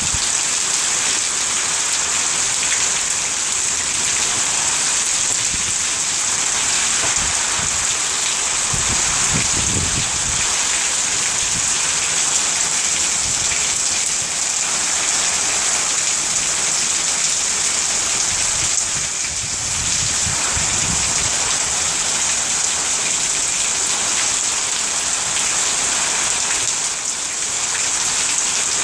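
Heavy rain falling steadily as an even hiss, with brief low rumbles about ten seconds in and again about twenty seconds in.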